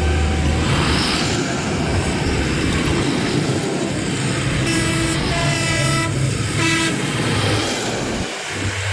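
Passing vehicle engines running, with a horn sounding twice: a longer blast about four and a half seconds in and a short toot about a second later.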